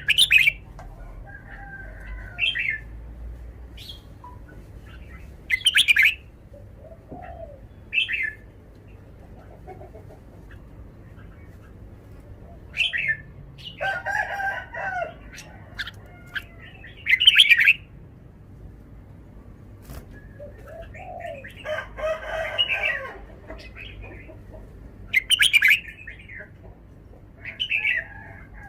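Red-whiskered bulbul singing short, bright phrases, one every few seconds.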